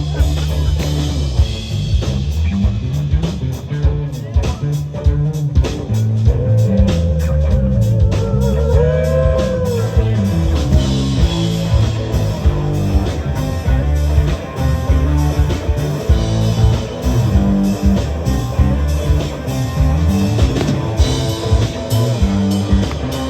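Live rock band playing an instrumental passage: guitar over bass guitar and a drum kit. About a quarter of the way in, a lead note is held and bent with wide vibrato.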